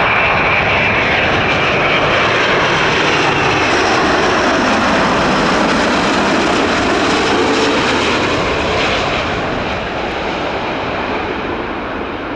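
Jet airliner passing close by with loud engine noise and a high fan whine that drops slightly in pitch. The noise fades about three-quarters of the way through as the aircraft moves away.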